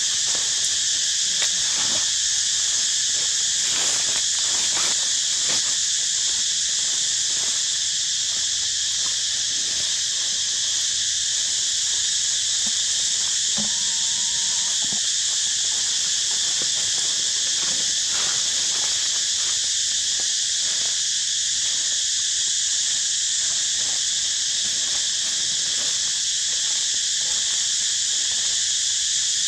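Steady, unbroken chorus of insects buzzing in a high pitch, with a few faint clicks and rustles underneath.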